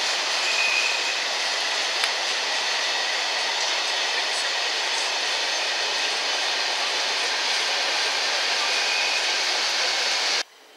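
Freight train of covered car-carrier wagons rolling past, a steady loud rush of wheels on rail that cuts off suddenly near the end.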